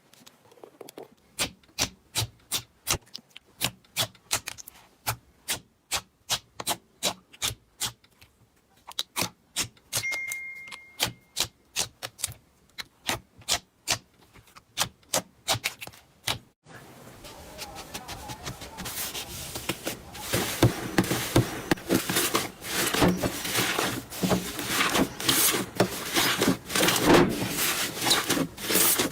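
Slime being poked and squeezed, giving sharp separate clicks and pops a few times a second; about two-thirds of the way through the sound changes abruptly to a denser, continuous crackling.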